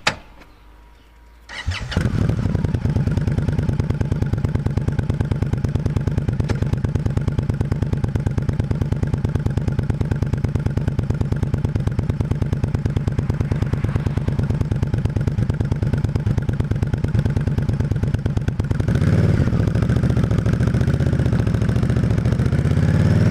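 V-twin motorcycle engine starts about one and a half seconds in and settles into a steady, pulsing idle. Near the end it gets louder and its pitch rises and falls as it is revved.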